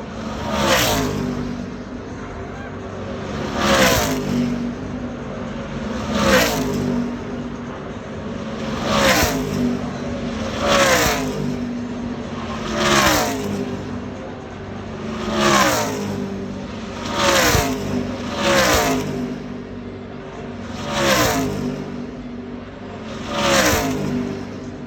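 NASCAR Truck Series race trucks' V8 engines passing at speed one after another, about eleven times, each pass rising to a loud peak and then dropping in pitch as it goes by.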